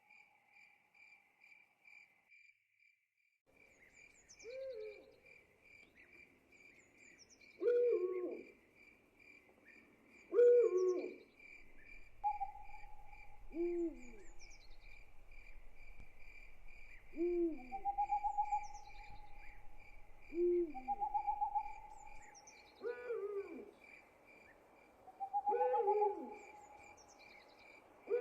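An owl hooting repeatedly, about eight short hoots spaced roughly three seconds apart, over the steady pulsing chirp of crickets that drops out briefly near the start.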